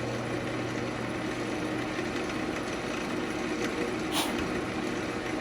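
Central Machinery wood lathe running with no tool on the wood: a steady motor hum, with one short tick about four seconds in.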